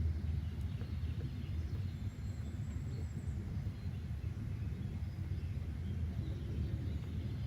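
Steady low rumble of outdoor ambience with a few faint bird chirps above it.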